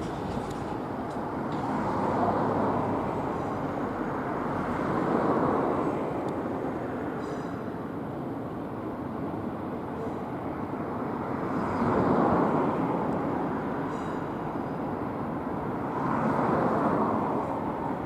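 Electric multiple-unit train rolling past on the approach tracks, a steady rumble of wheels on rails that swells four times.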